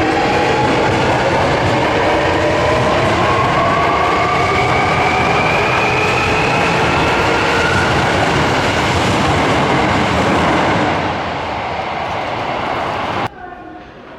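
Electric subway train pulling out of an underground station, its motors whining in several tones that climb steadily in pitch as it accelerates, over loud rumbling wheel and rail noise. The sound fades as the train leaves, then cuts off abruptly to quieter platform noise near the end.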